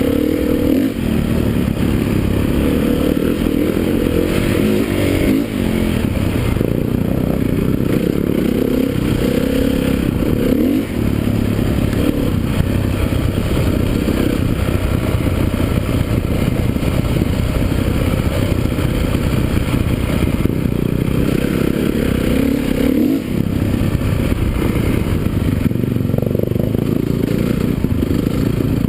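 Motocross motorcycle engines running continuously and revving up and down.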